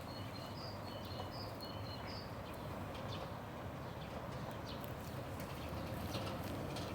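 A small bird chirping a run of short high notes, about two a second, over the first two seconds or so, against a steady low outdoor rumble. A few faint clicks follow later.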